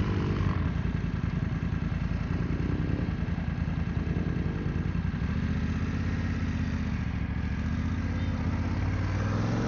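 BMW adventure motorcycle engine running at low revs as the bike rides a dirt trail. About five seconds in, an engine note rises in pitch and then holds.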